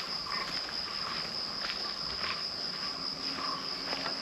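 Insects droning steadily, one continuous high-pitched buzz.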